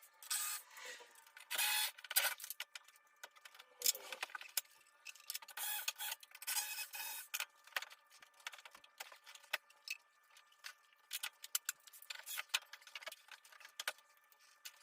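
Hand tools and loose engine-bay parts clicking, rattling and scraping in an irregular run of sharp clicks and brief rasping bursts as disassembly of the car's engine bay begins.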